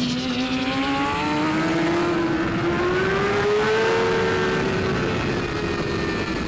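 Racing motorcycle engine running at high revs, its pitch climbing steadily for several seconds and then easing off slightly.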